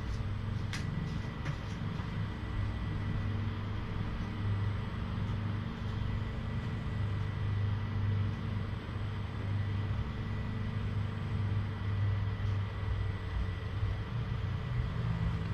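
A steady low rumble, like a running motor or vehicle, with a faint steady high tone and a couple of soft clicks about a second in.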